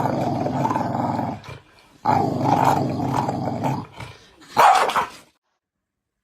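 A dog growling in two long, rough stretches, then giving one short bark.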